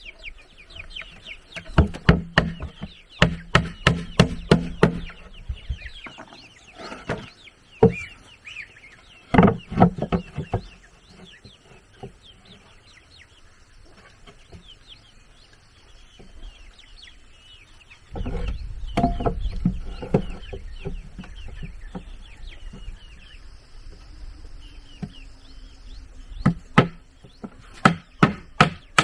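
Chickens clucking and calling, with quick runs of sharp knocks from wood being worked, several a second in the first five seconds and again near the end. A low rumble comes in about two-thirds of the way through.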